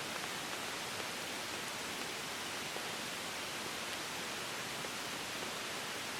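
Steady, even water hiss with a few faint scattered ticks.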